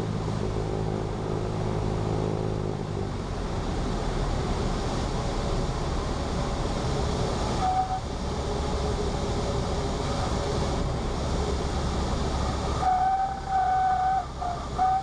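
Cessna 172P's four-cylinder Lycoming engine droning in the cockpit, giving way about three seconds in to a lower, even rush as the power comes back. The stall warning horn sounds a steady tone briefly near the middle, then for about two seconds near the end, as the plane slows toward touchdown.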